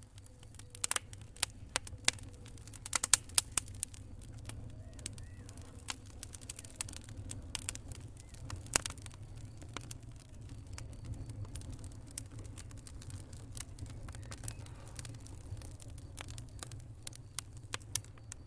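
Wood fire crackling in a fireplace: irregular sharp pops and snaps, thickest in the first few seconds, over a steady low rumble of the burning.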